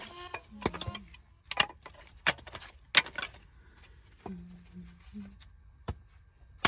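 Irregular sharp clicks and light clinks, a dozen or so spread unevenly, some ringing briefly.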